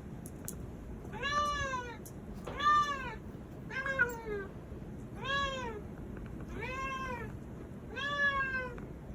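A domestic cat meowing six times, in drawn-out calls that rise and then fall in pitch, about one every second and a half.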